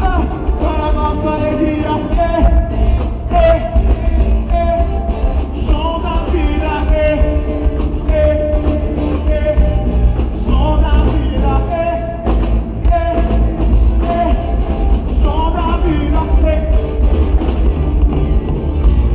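Live band playing a gospel rock song with voices singing the melody over loud, heavy bass and drums.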